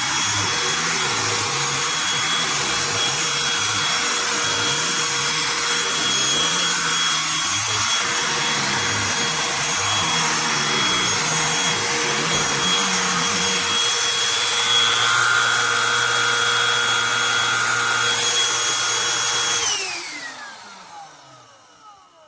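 Cordless handheld pet vacuum running steadily with a high motor whine while it cleans carpeted stairs. About 20 seconds in it is switched off, and the motor winds down with a falling whine.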